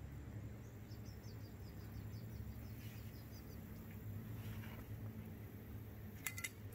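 Faint outdoor quiet in which a bird gives a rapid, high trill of short notes for about two seconds near the start. Near the end come two sharp clicks in quick succession.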